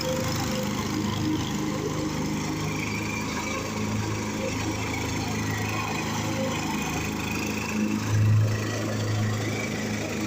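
A fifty-year-old tractor running steadily while mowing. The engine note swells briefly about eight seconds in.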